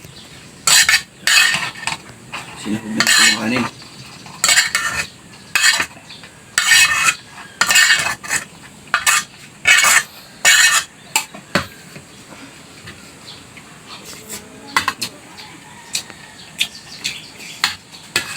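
Spoon scraping and clinking against a plate while eating, in a dozen or so short, sharp strokes, with fainter clicks in the last few seconds.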